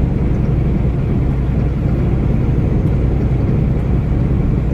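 Steady low drone of a truck's engine and road noise, unchanging throughout.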